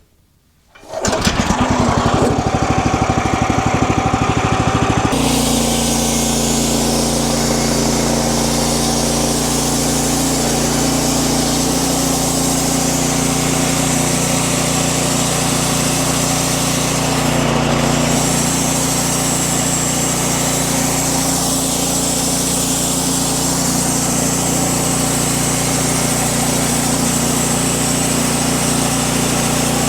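Wood-Mizer LX50 Super sawmill's engine running steadily, starting about a second in; the sound shifts abruptly about five seconds in and then holds steady.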